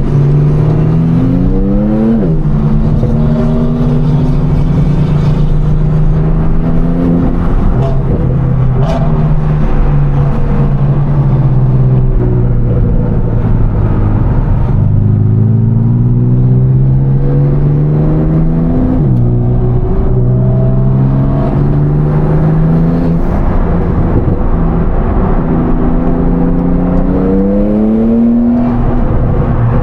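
High-performance sports car engine pulling hard on the highway. Its pitch climbs and falls repeatedly, with sudden drops at upshifts.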